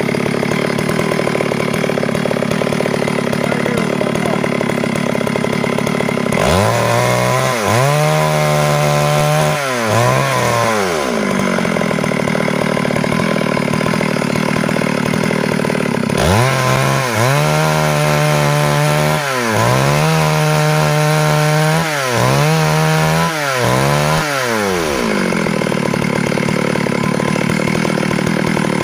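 Stihl MS 382 two-stroke chainsaw idling, then throttled up twice: once for about five seconds, and again for about nine seconds. Each time the engine pitch sags and recovers several times as the chain cuts into the wood, before it drops back to idle.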